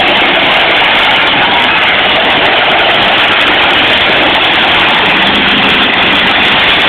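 Demolition derby cars' engines running loud and hard as the cars shove one another, heard as a steady wall of engine noise.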